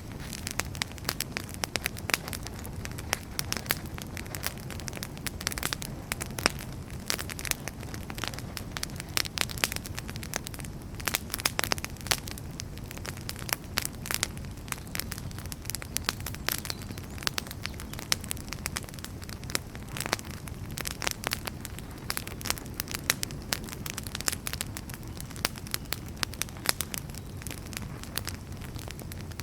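Wood fire burning in a fireplace, crackling and popping irregularly and without pause over a steady low rush of flame.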